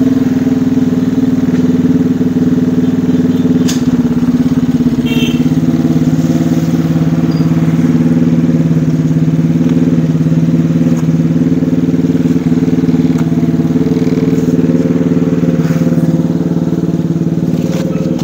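Engine of a homemade Lamborghini replica running steadily at a constant pitch while the car sits at the kerb, with a couple of short clicks about four and five seconds in.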